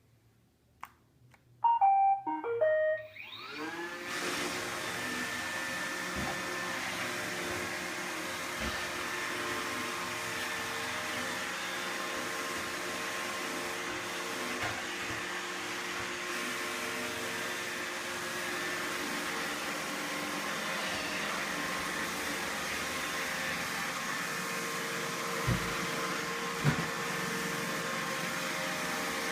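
Roomba robot vacuum playing its short start-up tune of a few beeping notes, then its motors spinning up and running steadily with a hum and whine over a brushing hiss. A few knocks cut through, the loudest two near the end.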